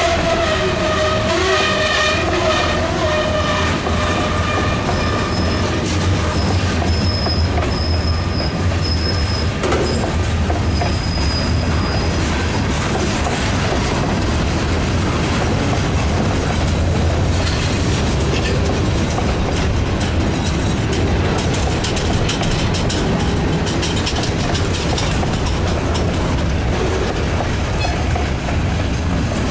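Freight cars of a mixed freight train rolling past close by: a steady heavy rumble with wheels clacking over the rail joints. There is a wavering pitched squeal in the first few seconds, and a thin high wheel squeal comes and goes a few seconds later.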